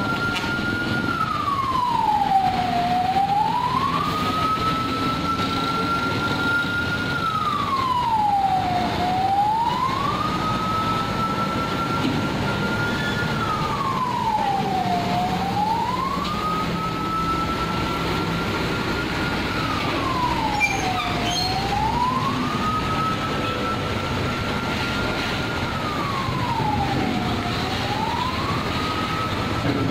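A siren, as used to escort a truck convoy, sounding a slow wail. The tone holds high, swoops down and climbs back up, about every six seconds, five times. Beneath it is the steady low rumble of truck engines and road noise.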